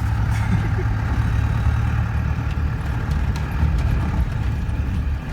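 Motor vehicle on the move: a steady low engine and road rumble, with a few faint clicks and rattles.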